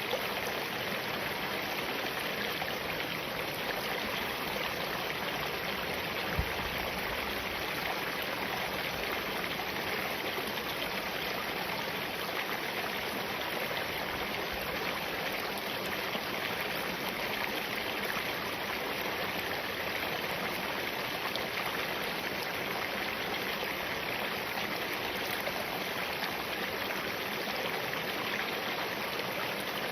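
Small mountain stream of spring water flowing and splashing over rocks, a steady, even rushing.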